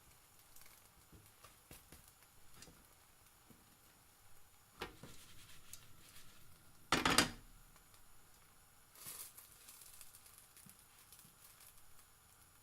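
Pancake frying in a pan: faint crackling with scattered small clicks, a sharp knock about five seconds in, and a louder, brief clatter about seven seconds in.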